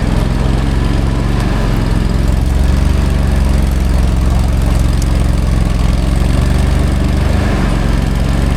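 Small engine running at a steady speed, a low even drone with no revving.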